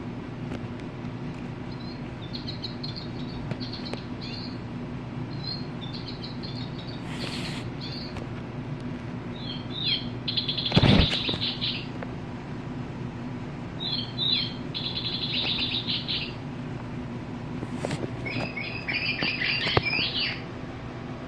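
Recorded bird calls played through the small speaker of Wild Republic Audubon plush toy birds: five bursts of short, high chirping trills, each one to two seconds long, with handling clicks and thumps between them, the loudest thump about eleven seconds in.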